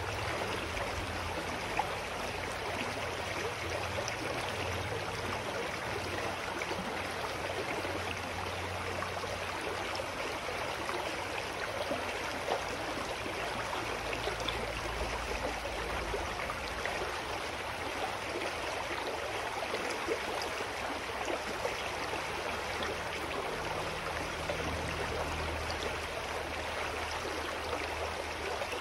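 Clear mountain stream flowing steadily, a constant rush and burble of water, with a low rumble underneath that swells and fades.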